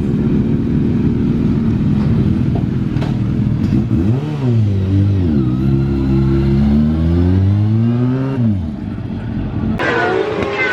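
Racing motorcycle engine running, then revved up and down several times in the middle. Near the end the sound changes suddenly to higher-pitched engine whines rising in pitch.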